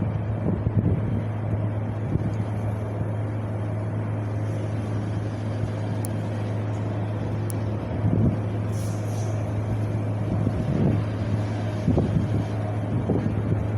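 Wind blowing in a steady low rumble, with stronger gusts swelling about eight seconds in and again near the end.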